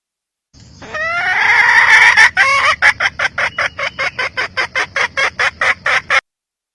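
Red junglefowl hen calling: a drawn-out rising call, then a quick run of clucks, about four to five a second, that cuts off suddenly.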